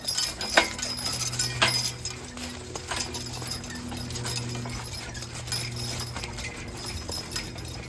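Team of draft horses walking, their hooves clopping on the ground in an uneven rhythm over a steady low hum.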